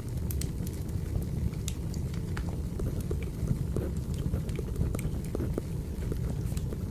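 Wood fire burning: a steady low rumble of flames with irregular crackles and pops.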